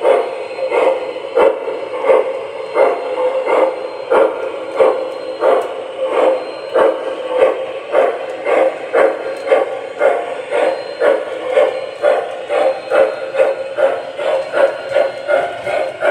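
MTH Rail King M1A Mountain model steam locomotive chuffing as it pulls a train, the chuffs coming faster as it picks up speed, from about one and a half a second to about three a second.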